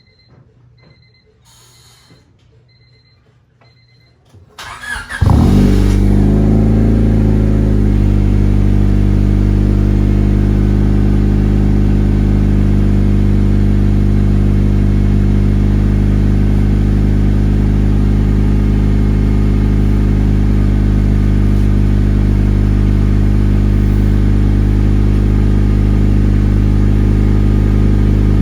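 Honda Civic EK hatchback engine cold-started: after a few faint beeps it cranks briefly, catches about five seconds in with a short flare in revs that falls away, then settles into a loud, steady cold idle.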